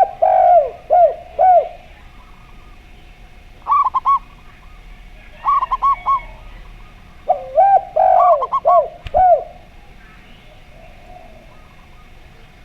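A zebra dove and a spotted dove cooing in turn. Phrases of lower, arching coos come at the start and again past the middle, with quick groups of higher coo notes in between.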